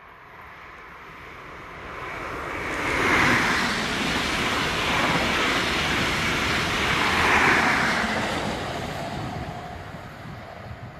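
High Speed Train of Class 43 diesel power cars and Mk3 coaches passing close at speed: a broad rushing noise that builds, is loudest about three and about seven seconds in as the leading and rear power cars go by, then fades away.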